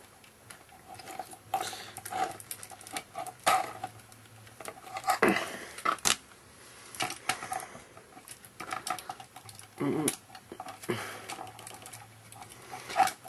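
Irregular clicks and clacks of a Binaltech Transformers police car toy's plastic and die-cast parts being worked by hand during transformation, with a few louder knocks as stuck pieces are pried and shifted.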